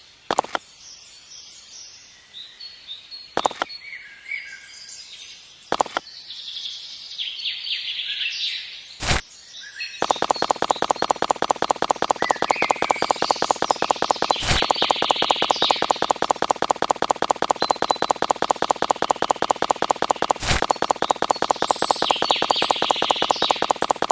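Small birds chirping, with a few sharp clicks. About ten seconds in, a loud, fast, even mechanical ticking of several beats a second starts and keeps going while the birds carry on.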